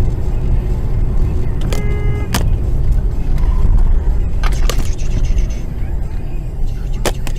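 Steady low road and engine rumble heard from inside a moving car, with a few sharp clicks scattered through and a short pitched beep about two seconds in.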